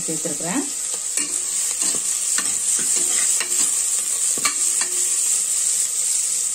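Chopped onions and green chillies sizzling in sesame oil in an aluminium pressure cooker, while a metal ladle stirs them and clicks and scrapes against the pot several times.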